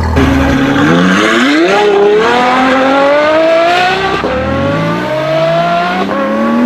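Car engine accelerating hard, its pitch climbing steadily and dropping back at gear changes twice, about four and six seconds in.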